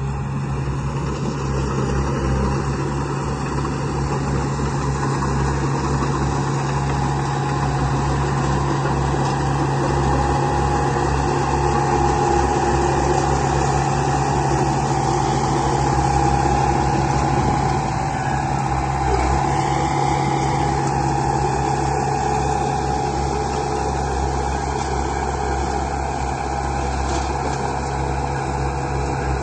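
Construction-vehicle engine running steadily at idle, a low even hum, dropping slightly in level about two-thirds of the way through.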